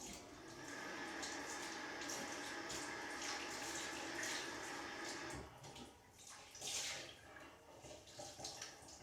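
Water running steadily, stopping about five seconds in, followed by a few light knocks and clatters.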